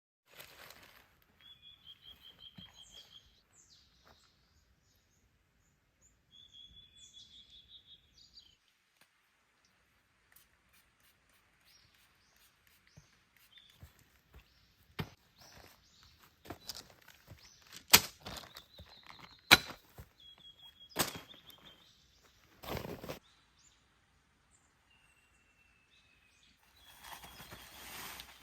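Bird calls: short high trills of rapidly repeated notes, heard three times, with a fainter gliding note near the end. Several sharp clicks and knocks sound in the middle, the loudest around two-thirds of the way in.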